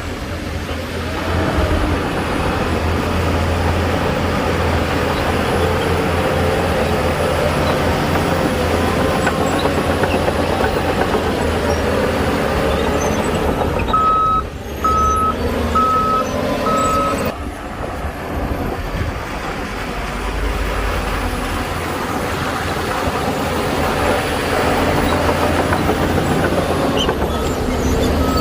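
Heavy construction machinery, a bulldozer and dump trucks, running with a steady deep engine drone. About halfway through, a reversing alarm gives four evenly spaced beeps, and another beep starts near the end.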